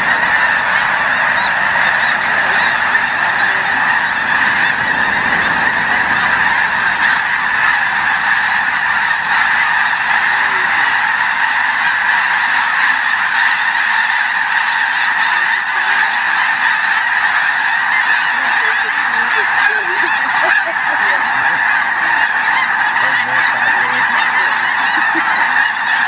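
A flock of snow geese calling, many overlapping honking calls that run on without a break.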